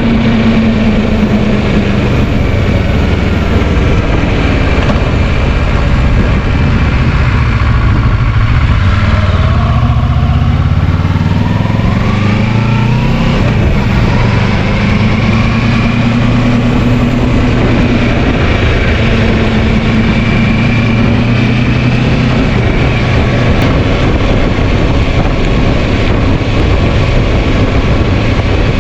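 Kawasaki Versys 650's parallel-twin engine running under way, heard from the bike with steady wind noise. About a third of the way in, the engine pitch drops, then climbs again, as the rider eases off and gets back on the throttle.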